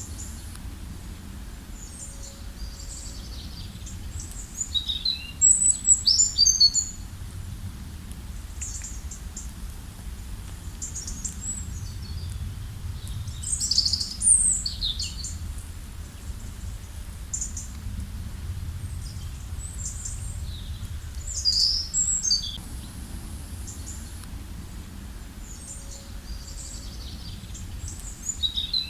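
Songbirds chirping and singing in short clusters of quick, high notes, loudest about five to seven seconds in, again around fourteen seconds and around twenty-two seconds, over a steady low background rumble.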